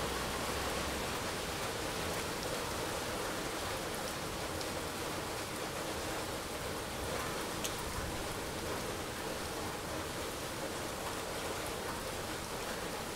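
Rain falling steadily, an even hiss with a few sharp ticks.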